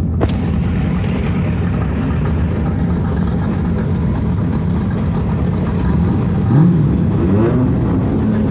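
Drag-race car engine running with a loud, steady idle, with a brief click just after the start. Near the end the engine revs, rising in pitch.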